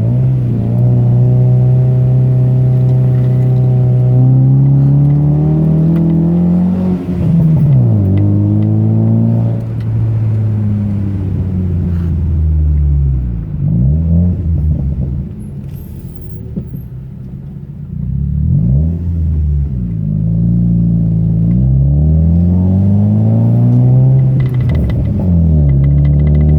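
Car engine under way, revving up and dropping back repeatedly as it shifts gears and lifts off. The pitch climbs and falls several times, with a quieter stretch in the middle.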